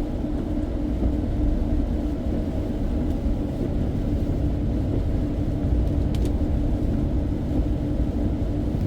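Steady low rumble of a car being driven, heard from inside the cabin, with a faint steady hum and one light tick about six seconds in.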